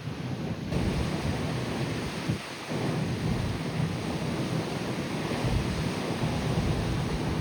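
Steady rumbling noise of wind and sea aboard a ferry in rough weather, with a shift in the sound less than a second in.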